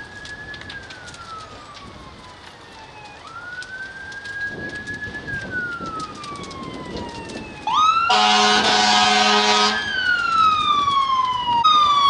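Emergency vehicle siren wailing, slowly rising and falling in pitch and getting louder. A loud horn blast lasts under two seconds, about eight seconds in.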